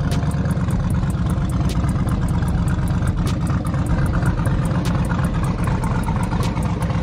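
Twin-turbo Oldsmobile Cutlass engine idling steadily, burning E85.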